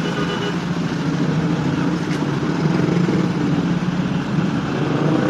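Scania K410CB bus's diesel engine running steadily with a low, even hum.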